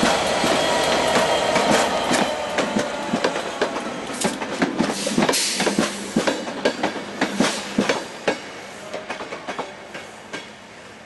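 Class 67 diesel locomotive passing with its engine running. Then the wheels of its test coaches click sharply over the rail joints. The clicks thin out and the sound fades as the train moves away.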